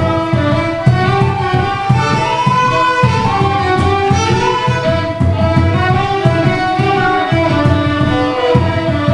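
Fiddle playing a lively Irish traditional tune in a steady dance rhythm, with a low rhythmic accompaniment beating underneath.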